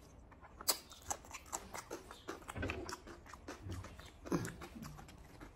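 Close, wet chewing and lip-smacking of rice and taro-leaf curry eaten by hand, a quick run of sharp mouth clicks with a few louder smacks.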